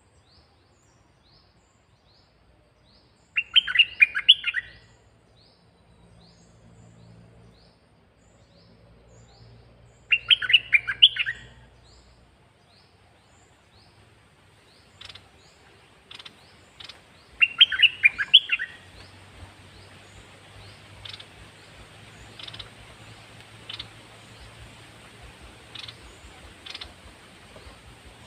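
Caged red-whiskered bulbul singing three short, loud, rapid warbled phrases about seven seconds apart, with faint high chirps repeating in the background.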